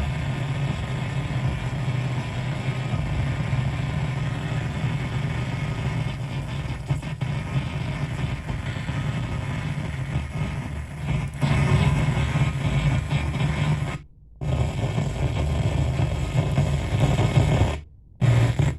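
An FM radio station's broadcast coming through as a garbled, distorted noise with a heavy low hum instead of normal programming. The audio cuts out abruptly to silence for a moment about fourteen seconds in and again near the end.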